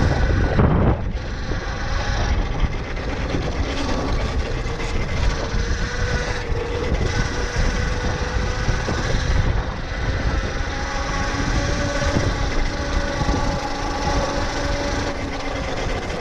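Electric dirt bike's hub motor whining steadily as it rides, its pitch creeping slightly upward, over a continuous low rumble.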